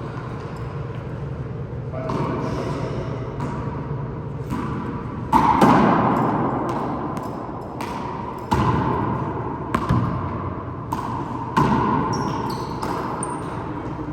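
Handball rally: a rubber handball struck by hand and slapping off the wall and ground in irregular sharp smacks. The loudest hits trail off for a second or so.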